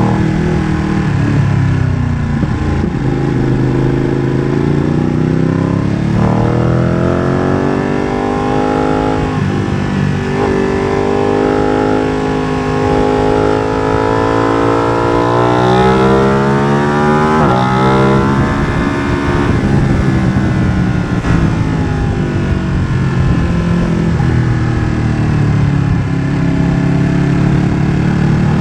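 Ducati Streetfighter V2's 955 cc Superquadro V-twin, breathing through a MIVV exhaust with the dB killer removed, ridden hard. Its note climbs repeatedly in pitch and drops back sharply at each gear change, then falls away and picks up again through the corners.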